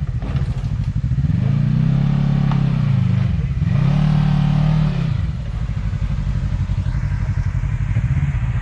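Side-by-side UTV engine revving up and easing back down twice as it climbs over rocks, then running steadily at a lower speed.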